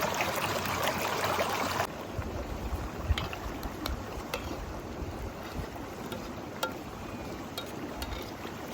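Flowing stream water for about the first two seconds, then an abrupt change to a quieter background of wind rumbling on the microphone with scattered sharp crackles.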